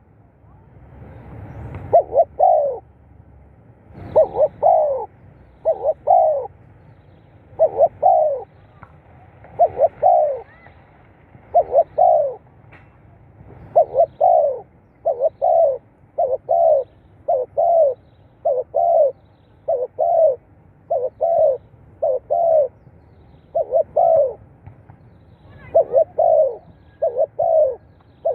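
Spotted dove cooing: short phrases of two or three falling coos, repeated about every one to two seconds.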